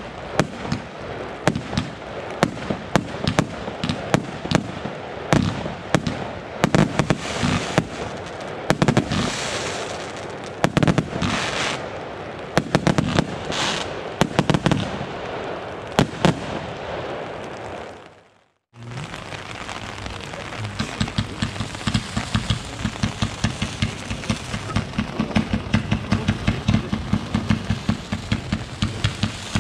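Consumer fireworks going off: rapid volleys of sharp bangs mixed with crackling. The sound cuts off abruptly about two-thirds through, and a second run of quick, evenly paced bangs follows.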